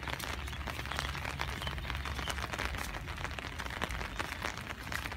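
Rain pattering: dense, irregular ticks of drops over a steady low rumble.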